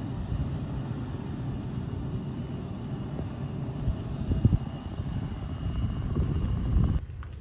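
Low, uneven rumble of airliner engines running at a distance. It cuts off abruptly near the end.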